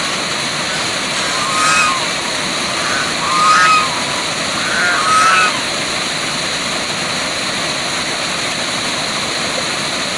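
Waterfall rushing steadily. Three short animal calls ring out over it in the first half, each about a second and a half apart.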